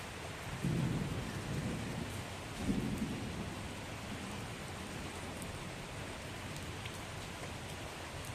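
Heavy rain falling steadily, with two low rolls of thunder, the first about half a second in and the second just under three seconds in.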